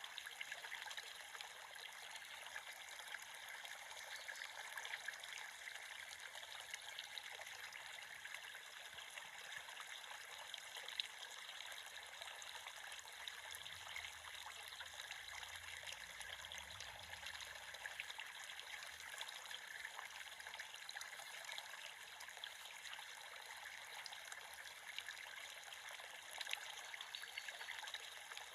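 Creek water running and trickling, a steady, faint rushing sound.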